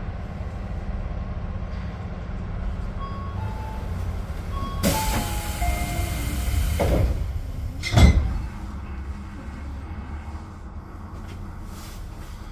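Tobu 10030-series electric train running along the track with a steady low rumble. A loud rushing noise comes in about five seconds in and lasts about two seconds, then a sharp loud bang about eight seconds in, after which the running is quieter.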